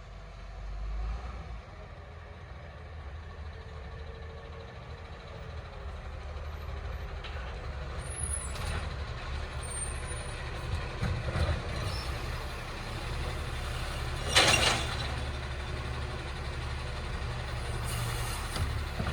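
Recycling garbage truck's diesel engine running and growing louder as it comes closer, with one short, loud air-brake hiss about three-quarters of the way through.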